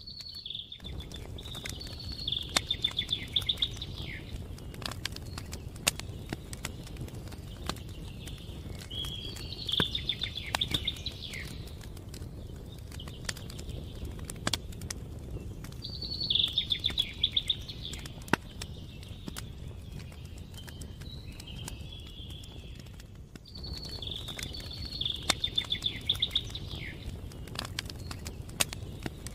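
A songbird singing the same short song four times, each phrase ending in a fast trill, about every seven seconds, over a campfire crackling with scattered sharp pops and a steady low rumble.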